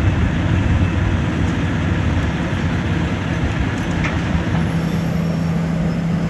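Steady low engine rumble with a deep hum, which settles into one steady pitch about halfway through.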